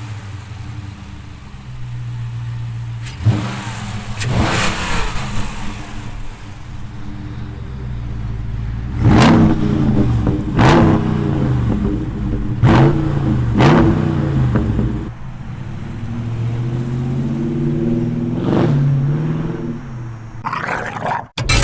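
2020 Dodge Charger Scat Pack's 392 HEMI V8 idling and revved in several sharp throttle blips, the biggest bunched in the middle, each rising and dropping back to idle. It is fitted with an AFE Stage 2 Momentum cold air intake, whose induction sound is what is being shown off.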